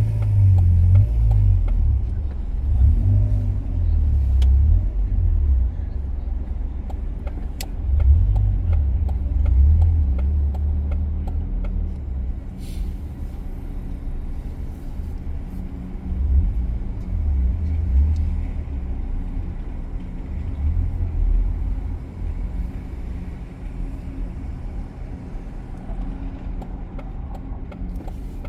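Low rumble of a car on the move, tyre and engine noise heard from inside the car, swelling and easing as it drives.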